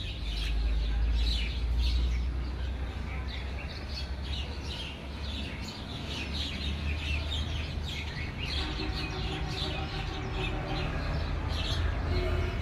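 Small birds chirping, many short high chirps in quick succession throughout, over a steady low rumble.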